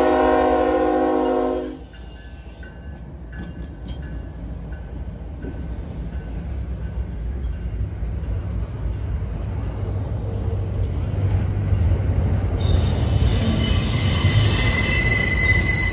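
Train horn sounding a chord of several notes that cuts off about two seconds in, followed by the low rumble of a passing train that slowly grows louder. High-pitched wheel squeal joins near the end.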